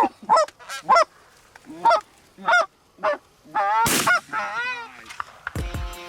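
A run of loud goose honks, short calls at uneven spacing, one louder and rougher call about four seconds in. Background music with a beat starts near the end.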